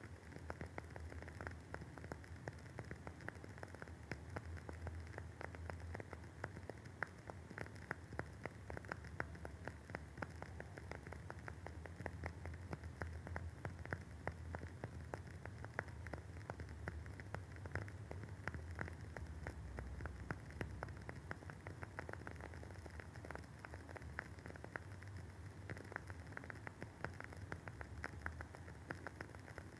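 Wooden candle wick burning with a constant fine crackle of many small irregular pops, over a faint low hum.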